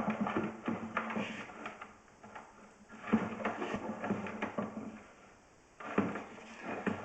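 Clattering and knocking of hard objects in three bursts, with a steady low hum under them.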